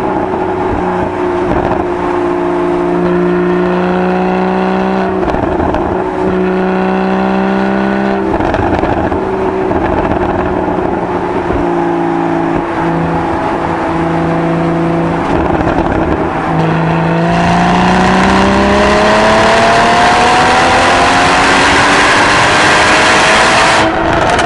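Porsche 981 Boxster GTS's naturally aspirated flat-six running through its stock exhaust. It holds fairly steady revs with several brief dips, then from about two-thirds in it pulls long and louder, its pitch climbing steadily until just before the end.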